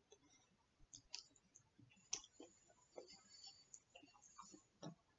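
Near silence broken by faint, scattered mouth clicks of a person chewing a bite of poutine.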